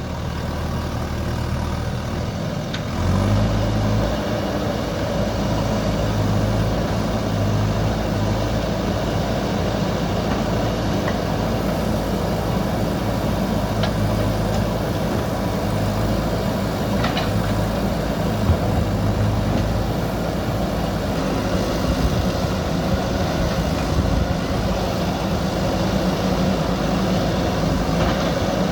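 JCB 3DX backhoe loader's diesel engine running under working load; it rises in level about three seconds in, with a few brief sharp clanks.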